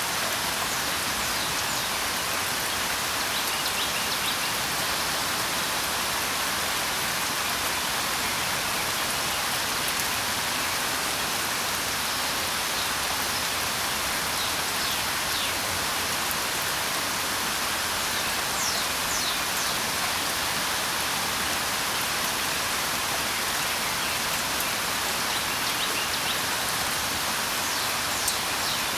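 Steady rain falling, a dense even hiss, with a few faint, brief bird chirps scattered through it.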